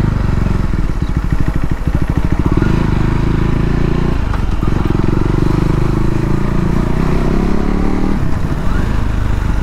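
KTM Duke 390's single-cylinder engine and exhaust running under way at low speed. The revs rise steadily from about four and a half seconds in and drop near eight seconds.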